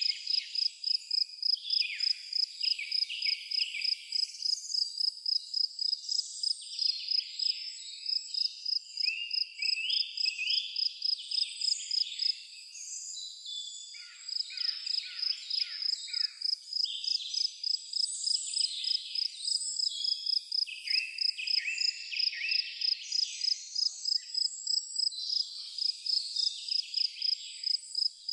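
A cricket chirping in a steady even pulse, about twice a second, with a pause of about two seconds near the middle, over several birds singing in short, quick phrases.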